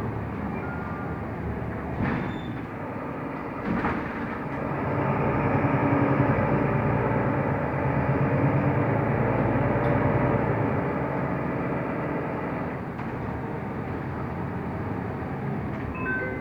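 Mercedes-Benz O345 Conecto LF city bus heard from inside the cabin: its diesel engine and drivetrain running. The engine grows louder about four seconds in and eases off after about eleven seconds. Two short knocks from the bus body come about two and four seconds in.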